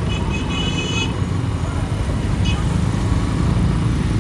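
City street traffic heard from a moving motorbike: a steady low rumble of engines and road noise. A high-pitched beep lasts about a second near the start, and a shorter one comes about halfway through.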